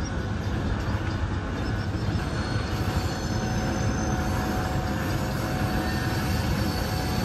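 Freight train of boxcars rolling slowly, with a steady low rumble and diesel drone and a faint high wheel squeal over it.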